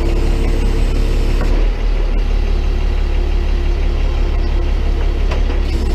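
Tow truck engine running steadily with a deep, low drone, with a few light knocks over it.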